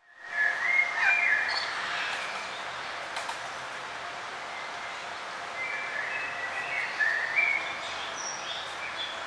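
Small songbirds chirping in short phrases of quick notes, over a steady hiss of outdoor background noise. The sound drops out for a split second at the very start, then birds call again, with busier chirping in the second half.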